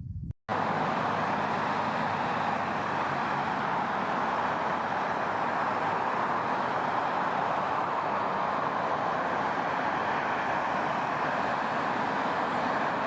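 A loud, steady rushing noise with no change in level, starting abruptly about half a second in after a brief drop-out.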